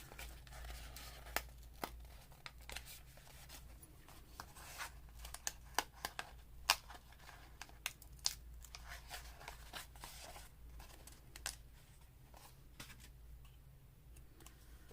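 Quiet handling of paper: scattered rustles, crinkles and light ticks as paper pieces are moved about and laid on a page, the sharpest a little before halfway.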